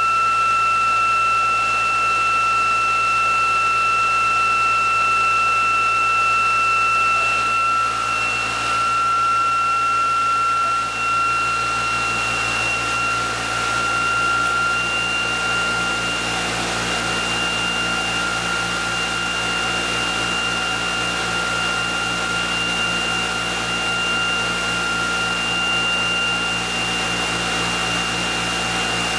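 Electric motor test rig running with a steady high whine over a hum. The whine rises slightly in pitch partway through as the system speeds up.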